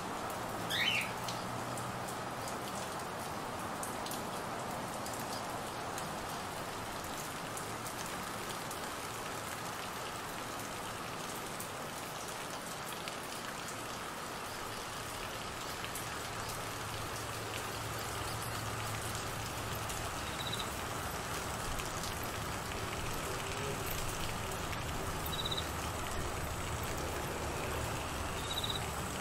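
Steady monsoon rain falling on trees and grass, an even hiss. A short bird call about a second in, and near the end crickets begin chirping in short, regular pulses over the rain.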